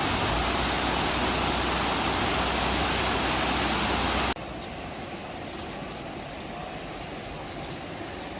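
Rushing water of a mountain stream, a steady even rush; about four seconds in it drops abruptly to a quieter, steadier rush.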